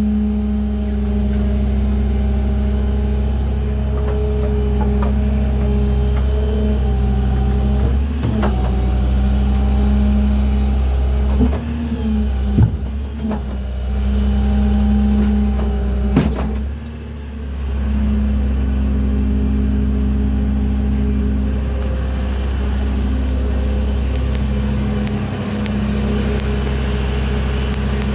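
A vehicle engine running steadily, with a few short knocks and clicks along the way and a brief drop in level about two-thirds through.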